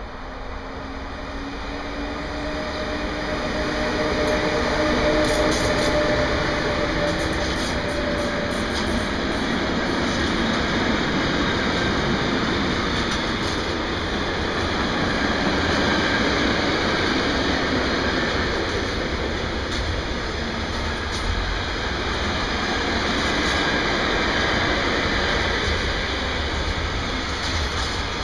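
Hector Rail Taurus electric locomotive hauling an intermodal freight train past at speed: the noise builds over the first few seconds as the locomotive arrives, with a faint steady tone from it that fades out. Then the long string of container wagons rolls by with steady wheel-on-rail noise.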